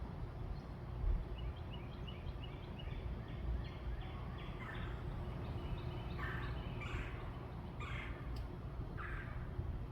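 Backyard birds calling: a few short chirps, then a run of louder, harsher calls about once a second in the second half, over a steady low rumble.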